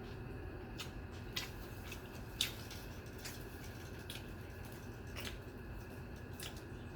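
Close-miked wet eating sounds of curry and rice: soft squishes and sharp smacking clicks, roughly one a second, the loudest about two and a half seconds in.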